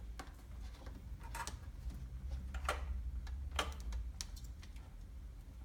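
Scattered light plastic clicks and taps of car-stereo wiring-harness connectors and cables being handled, over a steady low hum.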